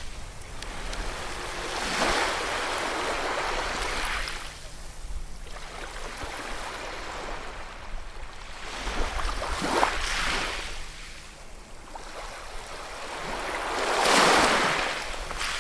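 Ocean waves breaking and washing up on a shore, the surf swelling and falling back in several surges, the loudest near the end.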